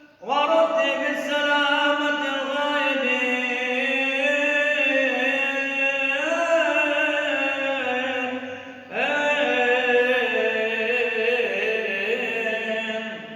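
A man's solo voice chanting a sung Arabic liturgical prayer in two long melodic phrases of held, slowly sliding notes, with a short break about nine seconds in and fading out near the end.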